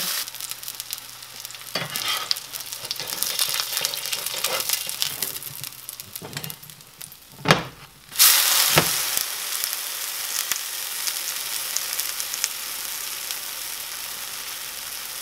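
Cornbread batter frying in hot side-meat grease in a cast iron skillet, a steady crackling sizzle. About seven and a half seconds in there is a sharp clack, and a moment later the sizzle jumps much louder as the cake is flipped into the grease, then slowly settles.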